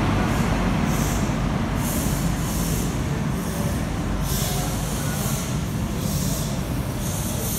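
An InterCity 125 (HST) diesel train running alongside a station platform: a steady low rumble with irregular surges of hiss about every second.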